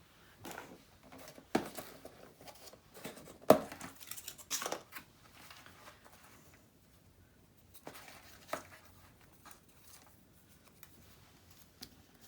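Paper being handled and shuffled on a craft table: intermittent rustling of card and paper with light knocks, the sharpest about three and a half seconds in, followed by a brief rustle.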